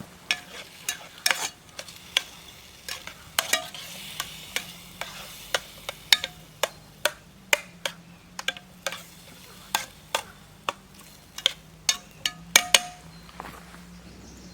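A utensil knocking and scraping against a metal cooking pot as food is stirred, irregularly two or three clinks a second, some ringing briefly. A light sizzle of food cooking runs underneath.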